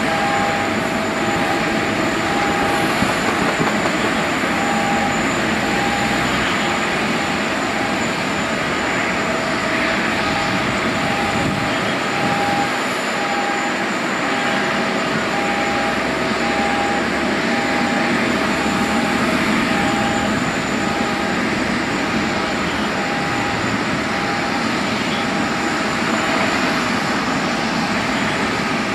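Steady jet aircraft noise, with a short beep repeating about once a second, off and on.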